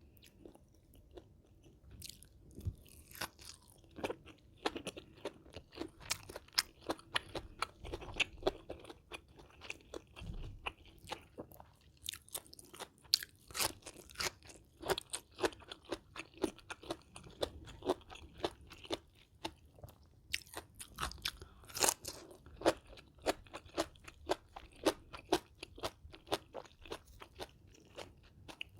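Close-miked chewing and crunching of a Thai meal of spicy bamboo shoot salad with grilled catfish and vegetables: a steady run of crisp crunches, about two a second, beginning about two seconds in.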